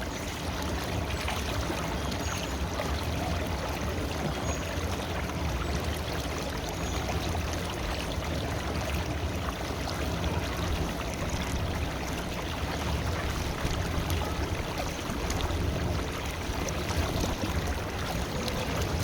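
River water flowing steadily: a continuous rushing with a deep rumble underneath.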